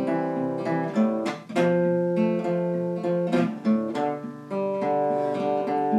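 Acoustic guitar playing a slow instrumental passage without singing, strumming and picking chords that change about every second.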